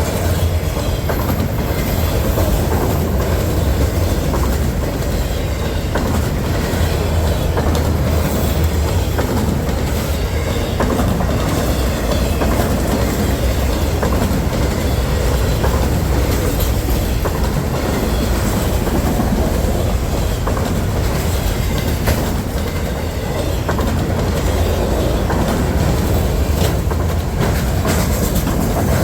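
A freight train's cars rolling past at close range: a steady, heavy rumble with the clickety-clack of wheels over the rail joints.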